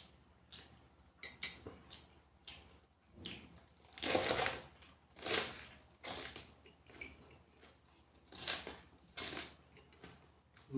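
A person chewing and crunching food close to the microphone in irregular bites, the loudest crunches about four to five and a half seconds in.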